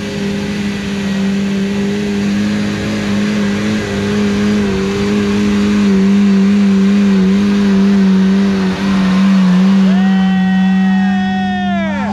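Suzuki Sierra 4WD's small petrol engine held at high revs under load as it climbs a steep dirt hill: a steady, loud drone with small dips. Near the end a higher sound slides down in pitch over about two seconds.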